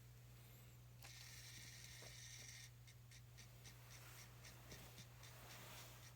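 Faint high-pitched buzzing from a stepper-motor tachometer being driven. It starts about a second in and then cuts on and off in quick pulses, a few a second, as the needle steps. A steady low electrical hum lies underneath.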